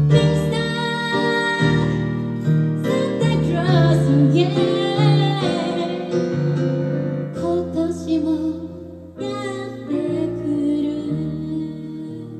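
Music: a singer with piano accompaniment, sustained keyboard chords under a sung melody that comes and goes.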